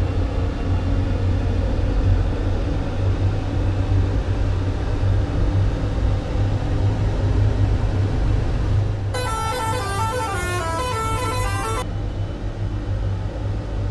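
Eicher 6039 truck's diesel engine running with a steady low rumble. About nine seconds in, a musical air horn plays a short stepped tune for about two and a half seconds, then stops abruptly.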